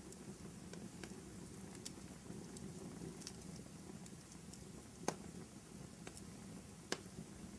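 Wood fire burning in a fireplace: a steady low rush with scattered small crackles and two louder sharp pops, about five and seven seconds in.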